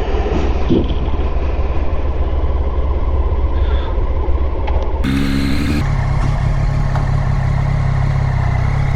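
Motorcycle engine running steadily with rumbling road noise. About five seconds in, the sound changes abruptly to a steadier engine drone with held low tones.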